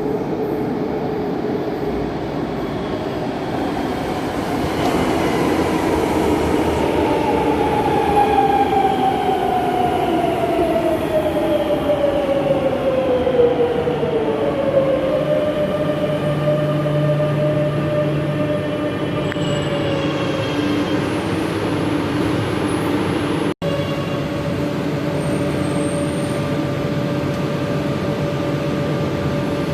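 Madrid Metro electric train running, its motor whine falling steadily in pitch as it slows over several seconds, then holding a steady tone over the rumble of the cars. The sound breaks off for an instant about two-thirds of the way through.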